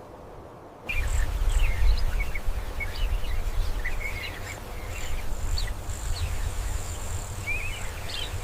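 Birds chirping and calling with many short, quick notes, over a low wind rumble and a thin, steady, high-pitched whine. The sounds start abruptly about a second in.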